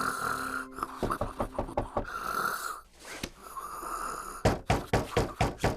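A cartoon character snoring in slow breaths. About three-quarters of the way through, rapid loud knocking on a door starts, around five knocks a second.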